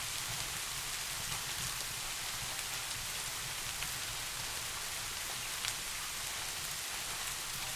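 Steady rain: an even hiss of falling rain with a few sharper ticks scattered through it.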